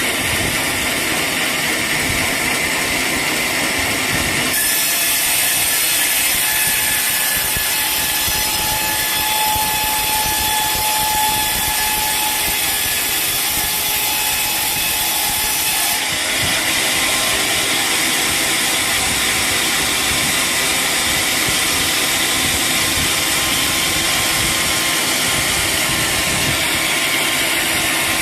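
Sawmill saw cutting through a teak log, a steady loud saw noise with a faint whine. The sound changes abruptly about four seconds in and again about halfway through.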